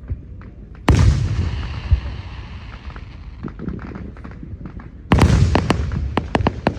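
Fireworks going off: a loud boom about a second in with a long fading rumble, then a second boom about four seconds later followed by a quick run of crackling pops.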